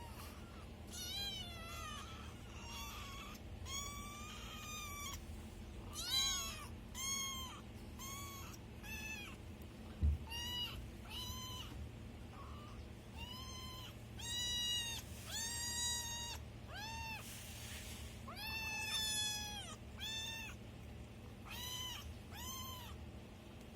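Kittens meowing over and over, about twenty short, high-pitched mews, with a single thump about ten seconds in.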